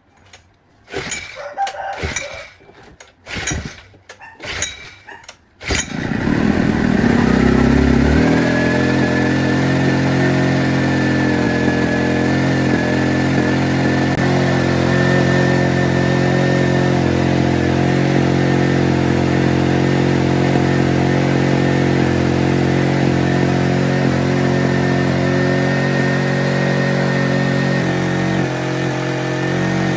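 Small Honda generator engine pull-started: several short starter-cord pulls in the first few seconds, then it catches and runs steadily. The restored generator is running again.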